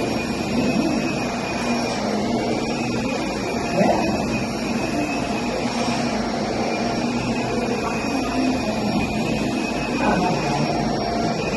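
Upright carpet vacuum cleaner running steadily, its motor's high whine dipping briefly every few seconds.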